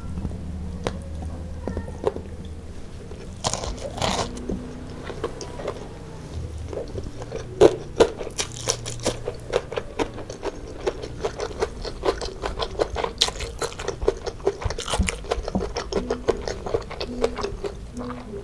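Close-miked chewing and crunching of galangal fried chicken and rice, eaten by hand: many quick wet mouth clicks and crunches, coming thicker from about seven seconds in.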